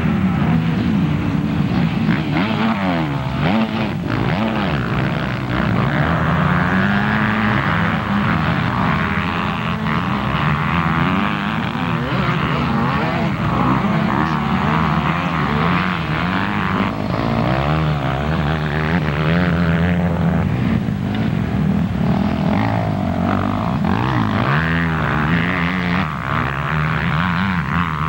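Several motocross bikes' engines racing around the track, their buzzing pitch rising and falling as riders open and close the throttle, with more than one bike heard at once.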